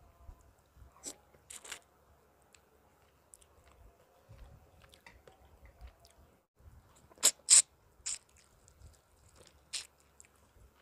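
Close-miked eating sounds: chewing of chicken eaten by hand, with a few short sharp crackly mouth sounds, the loudest a pair about seven seconds in.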